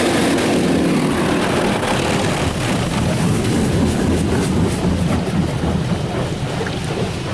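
D&S IQ Touch Free 2.0 touchless car wash gantry spraying water onto the car, heard from inside the cabin: a steady loud rush of spray over a low machine hum.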